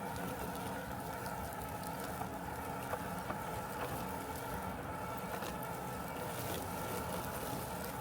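Robotic lawn mower running steadily: an even mechanical hum made of several steady tones, with a couple of faint ticks about three seconds in.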